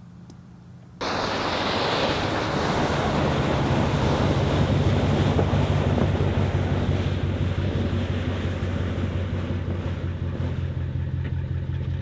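Pickup truck driving, a steady engine drone under a loud rush of tyre and wind noise that starts abruptly about a second in.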